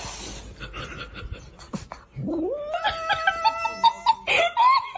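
A cat giving a long, drawn-out meow that rises in pitch and then holds, wavering. A second rising call follows near the end. Before the calls, a few faint knocks.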